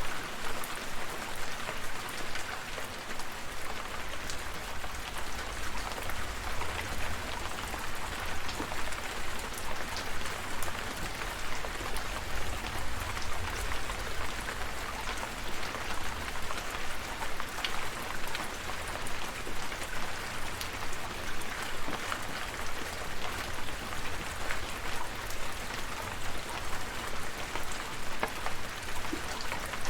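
Steady rain falling, with individual drops pattering sharply over a continuous hiss and a low rumble underneath.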